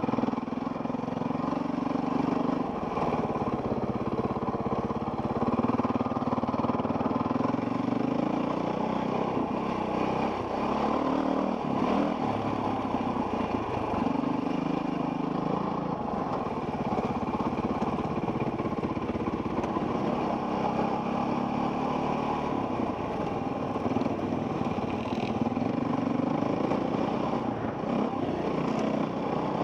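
Off-road dirt bike engine running under load on a trail ride, its note rising and falling every few seconds as the throttle opens and closes.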